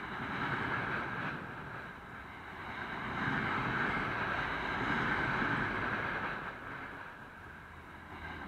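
Passenger coaches of a train rolling past close by: a steady rumble and hiss of wheels on the rails, swelling about three seconds in and easing near the end.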